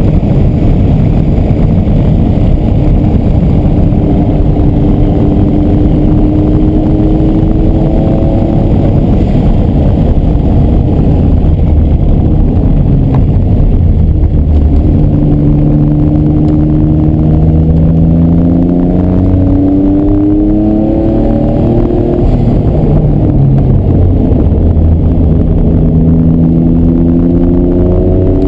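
Noble sports car engine heard from inside the cabin on track, revving hard with its pitch climbing and falling back several times, about every four to six seconds in the second half.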